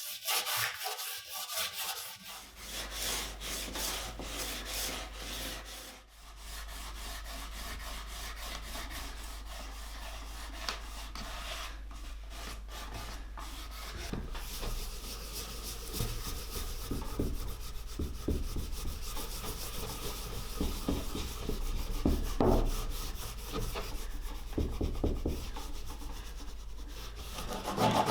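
Beeswax and olive oil finish being rubbed into a wooden tray, a continuous scratchy rubbing made of many short strokes. A low steady hum comes in about two seconds in.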